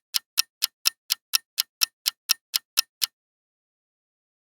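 Countdown-timer sound effect ticking like a clock, about four even ticks a second, stopping about three seconds in.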